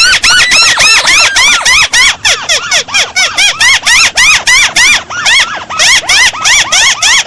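Lure recording of a crake (burung tikusan) calling: a fast, loud run of chattering notes, about four to five a second, each sweeping up and back down in pitch.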